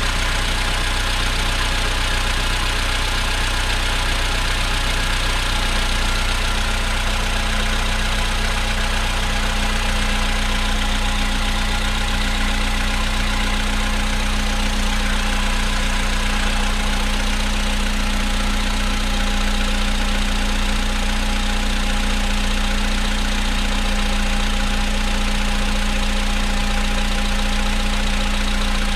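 VW Polo Sedan's 1.6 CFNA four-cylinder petrol engine idling steadily while still cold, with the knocking it makes on a cold engine. A steady hum comes in about six seconds in and holds.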